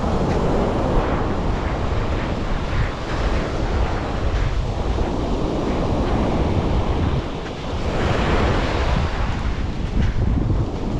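Sea waves washing onto a beach, with wind buffeting the microphone as a low rumble. The surf swells up near the start and again about eight seconds in.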